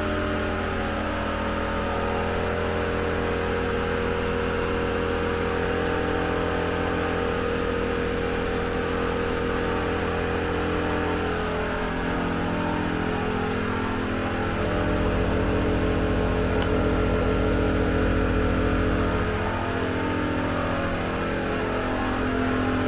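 Morrflate air compressor running steadily while inflating tires to a set 40 psi. Its hum changes pitch slightly about halfway through and gets a little louder for a few seconds after that.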